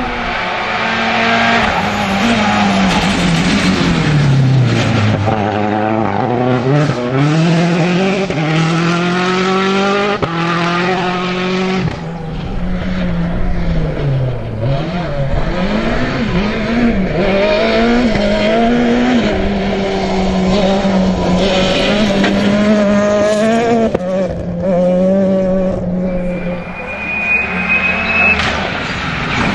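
Rally car engine at full stage pace, the revs repeatedly climbing and dropping through gear changes and lifts, with a sharp break about twelve seconds in. A thin rising whine comes near the end.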